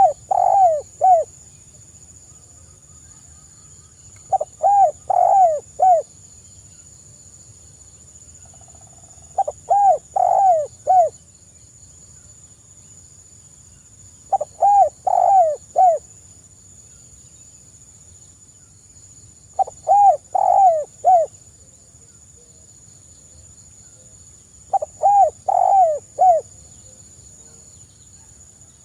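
Spotted dove (tekukur) cooing: a short phrase of three or four rounded notes, repeated six times at about five-second intervals.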